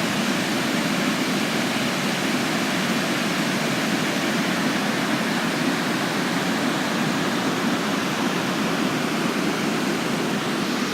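Aysgarth Falls' middle tier pouring over its rock steps: the steady, loud rush of a river waterfall.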